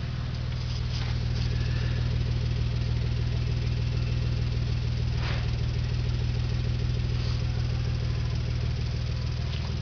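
Nissan 300ZX's V6 idling steadily through a custom exhaust with Magnaflow mufflers, two Toyota Camry resonators and 63 mm piping. The exhaust note is low and even.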